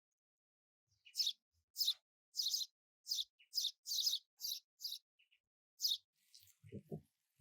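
A bird chirping repeatedly: about ten short, high chirps roughly half a second apart. A few soft low knocks come near the end.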